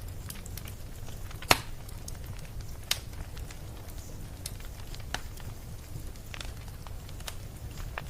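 Wood fire crackling: irregular sharp pops over a steady low rumble, with the loudest pop about one and a half seconds in.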